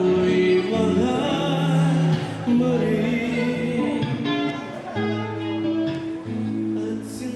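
Live band playing a song: a singer with guitar accompaniment, getting quieter near the end.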